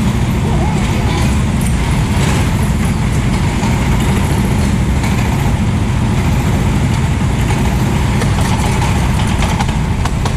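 A 390cc go-kart engine running steadily, heard as a loud, dense low rumble with a hiss over it.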